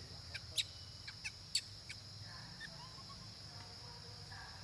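A steady high-pitched insect drone, with about seven short, sharp high chirps in the first two seconds.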